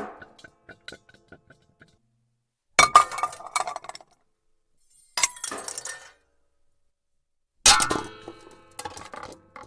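Pots, pans and kitchenware crashing and clattering: three separate crashes, each a sudden loud hit followed by about a second of ringing and rattling as the pieces settle, with a few small clinks in between.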